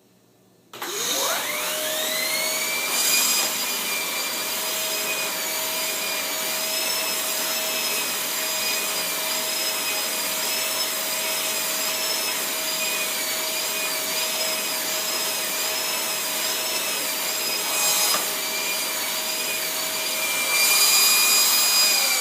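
Shark Rotator vacuum cleaner switched on about a second in, its motor whine rising as it spins up, then running steadily with a slightly wavering pitch while its turbo brush attachment is worked over a car floor mat.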